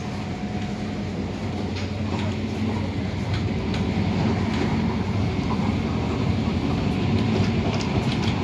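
MTR Tung Chung Line A-Train (Adtranz-CAF electric multiple unit) running at speed: a steady rumble and hum of motors and wheels on rail, with a rhythmic knocking beat from the wheels, growing slightly louder as it goes.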